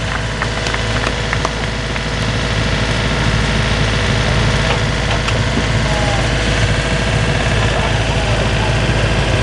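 An engine idling steadily with an even low hum, with a few faint clicks and knocks over it.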